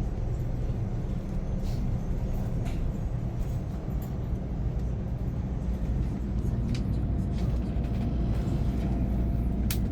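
Steady low rumble inside a Nozomi Shinkansen passenger car as the train runs toward a station stop, with a faint steady whine joining about seven seconds in.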